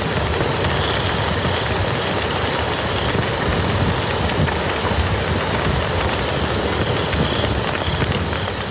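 Campfire crackling over the steady rush of a river, with a short high chirp repeating about once a second.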